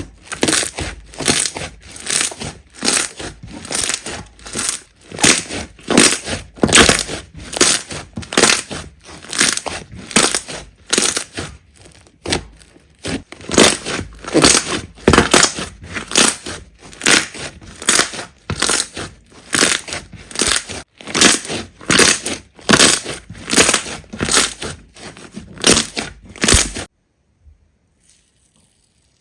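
Slime being pressed and squeezed over and over, about two strokes a second, each a short crisp noise. It stops suddenly near the end.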